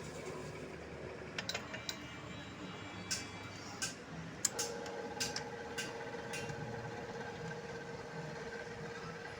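A workshop machine's electric motor starts humming steadily about halfway through, over a low mechanical background, with scattered sharp metallic clicks and taps of tools being handled.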